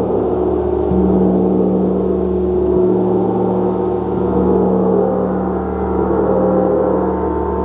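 A gong sounding continuously, a dense wash of many overlapping sustained tones that swells and ebbs gently without distinct strikes.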